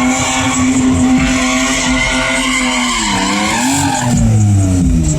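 Car engine held at high revs while its tyres spin and screech on the pavement, as in a burnout or donut. The revs waver about three seconds in, then drop sharply near the end.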